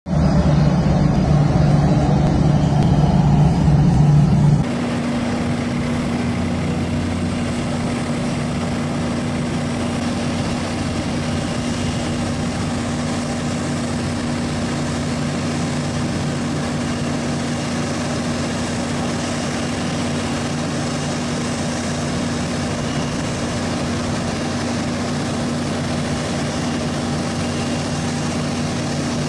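Jet airliner engines running steadily, a constant low hum over a wide rushing noise. About four and a half seconds in, the sound changes abruptly to a slightly quieter, steadier take with a fixed low whine.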